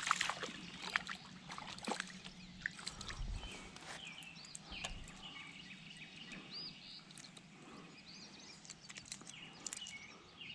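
Birds calling over and over, with water sloshing against a kayak and a few sharp clicks and knocks, the loudest right at the start.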